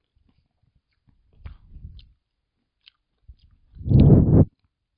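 Close-miked chewing of a juicy hwanggeumhyang citrus segment: soft wet mouth sounds, with a louder stretch of chewing near the end.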